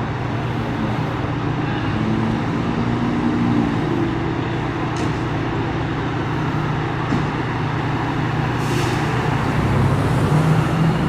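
Street traffic with a heavy vehicle's engine running steadily and humming low, and a brief hiss about nine seconds in.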